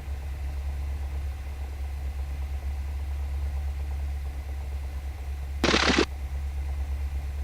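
Cessna 172's piston engine idling, a steady low drone heard inside the cockpit, with a short burst of crackling noise about six seconds in.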